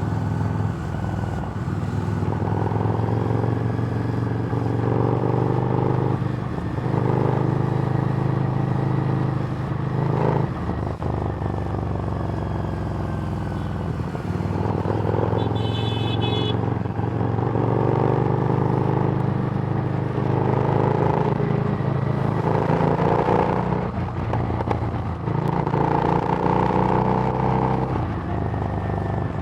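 Harley-Davidson Street Rod's V-twin engine running through a Screamin' Eagle exhaust while riding. The pitch climbs and falls with the throttle, with short dips every few seconds. A brief high tone sounds about halfway through.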